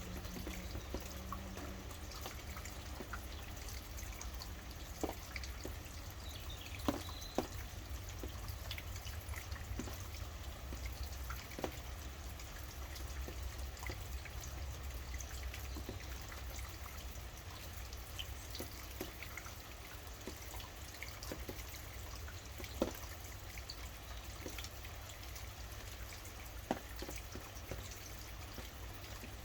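Steady rain with a low rumble underneath, and irregular single heavy drops ticking sharply now and then.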